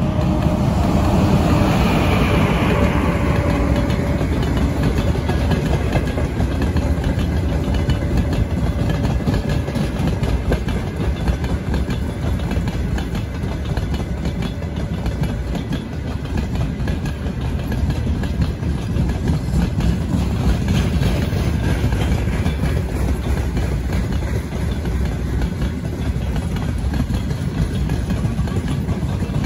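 A vehicle running: a loud, steady low rumble.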